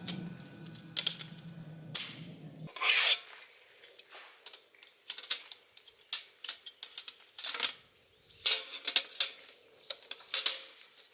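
Background music ending about two and a half seconds in, then a string of irregular sharp clicks and knocks.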